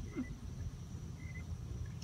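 Outdoor pond ambience: a low, even rumble with a faint, steady high-pitched insect drone, and a brief faint chirp about halfway through.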